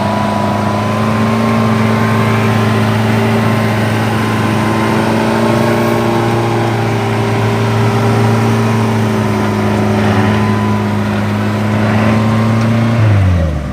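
Off-road vehicle engine held at high, steady revs, then dropping sharply in pitch near the end as the throttle comes off.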